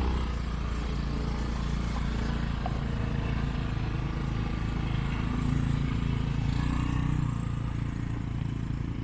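Motorcycle engine running steadily under load, its pitch rising slightly about two-thirds of the way through, then settling.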